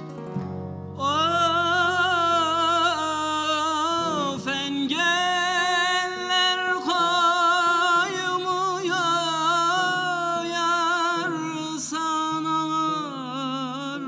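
Turkish folk song: a long, ornamented held vocal line with wavering pitch over a steady low drone, entering about a second in.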